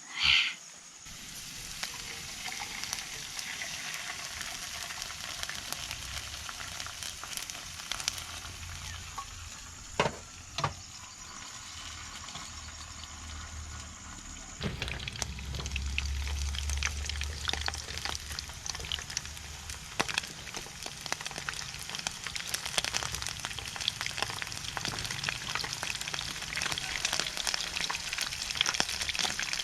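Food frying in hot oil in a pan, a steady sizzle full of small crackles and pops. It grows louder and busier about halfway through, and a couple of sharp knocks come around ten seconds in.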